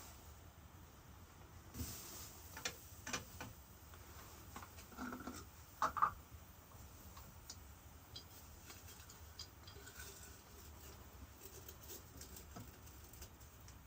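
Scattered small clicks and taps of things being handled, with a short run of louder knocks and a ringing clink about five to six seconds in, like a cup or kettle being set down.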